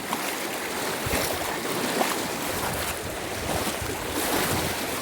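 Steady rush of water being stirred, with wind on the microphone and a couple of faint knocks about one and two seconds in.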